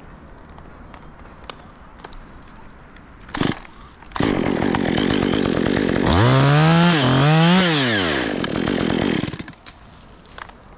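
Chainsaw that starts after a brief burst about four seconds in, runs, is revved up twice, then stops about a second before the end.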